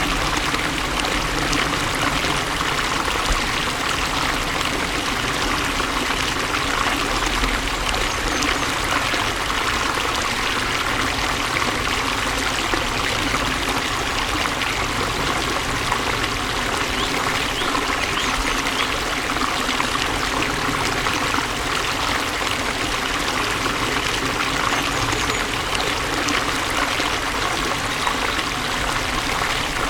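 Flowing water: a steady stream trickling and splashing without a break.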